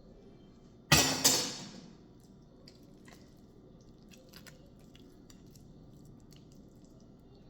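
Two loud, sharp knocks about a quarter of a second apart, each ringing out briefly, then faint clicks and soft handling sounds of kitchen food preparation.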